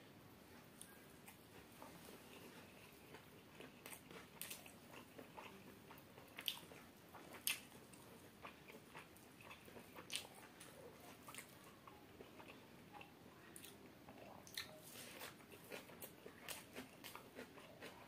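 A person chewing mouthfuls of chicken biryani close to the microphone: quiet, wet mouth clicks and smacks come irregularly, with a few sharper ones between about six and eight seconds in.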